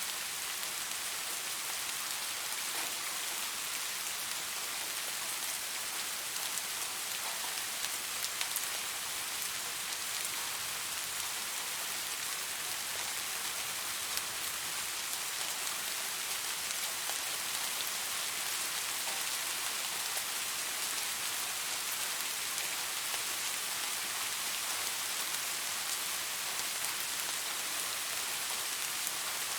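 Steady rain falling on leaves: an even hiss with scattered drop ticks.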